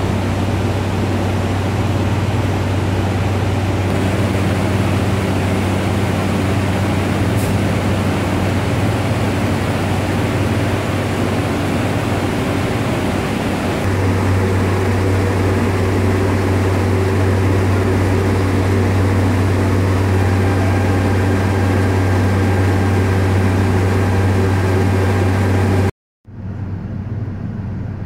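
Steady mechanical hum of a train standing at a station platform: a strong low drone with a few steady tones above it. It grows a little louder about halfway through, then cuts off abruptly near the end and a quieter hum follows.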